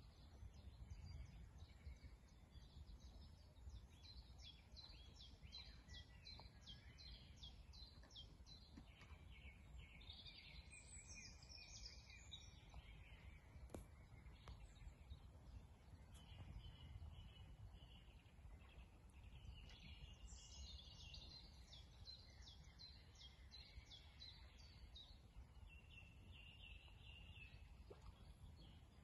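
Faint songbirds singing, with repeated short chirping and trilling phrases throughout, over a low, steady rumble.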